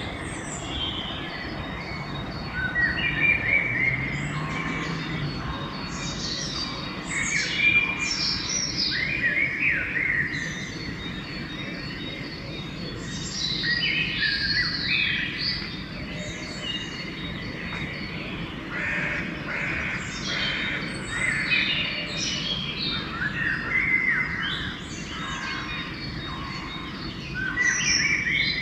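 Dawn chorus: several songbirds singing and calling at once, short whistled phrases and trills overlapping one another without a break, over a steady low background rumble.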